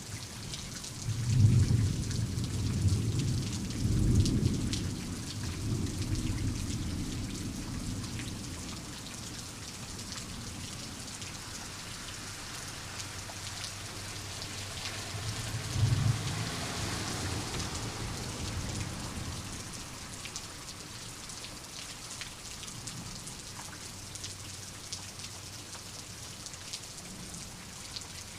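Steady rain falling, with two low rolls of thunder: one beginning about a second in and rumbling on for several seconds, and a shorter one a little past halfway.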